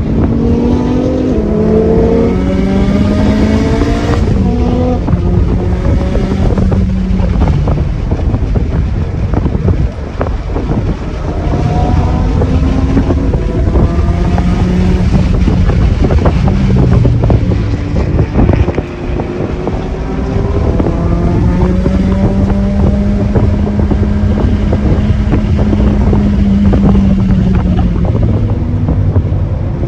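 Performance car engine and exhaust driven hard on a race track, the pitch climbing through several gear changes early on, dropping sharply about ten seconds in and again near eighteen seconds, then holding a steady note. Wind buffets the microphone throughout.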